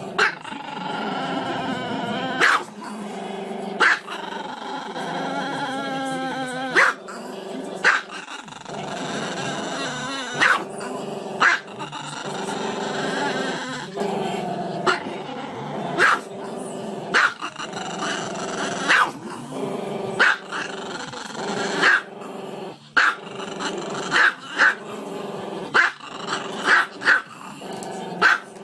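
A Chihuahua howling in long, wavering drawn-out notes, broken every second or two by short, sharp barks.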